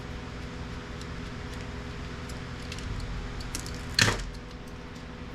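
Small plastic printer parts and gears clicking and rattling as they are handled, with one sharper clack about four seconds in, over a steady background hum.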